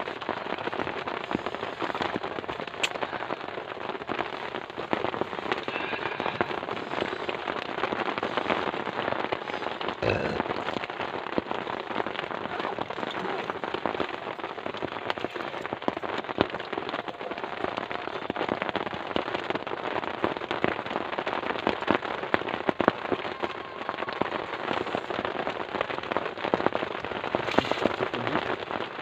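Heavy rain falling steadily, a dense patter of many separate drop hits on a nearby surface.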